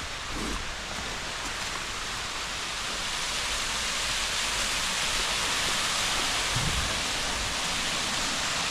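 Waterfall's steady rush of falling water, growing gradually louder as it is approached, with a couple of soft low thumps.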